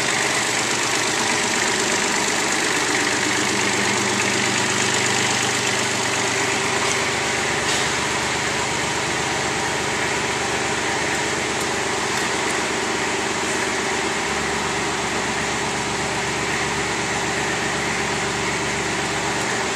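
Kubota KX41 mini excavator's 20 hp three-cylinder liquid-cooled diesel running steadily. A deeper low tone joins about three-quarters of the way through.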